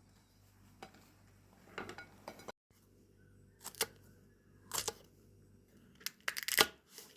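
A handful of short, irregular crackling and scraping handling noises, the loudest cluster near the end.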